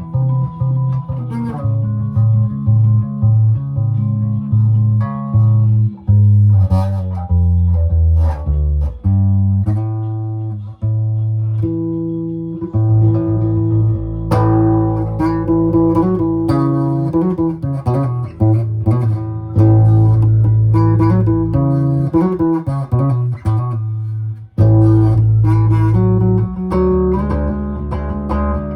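Guitar music: plucked notes over a moving bass line.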